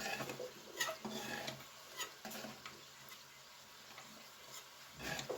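A spoon stirring and scraping a pot of freshly cooked chickpea, pea and potato curry, with irregular light clinks against the pot.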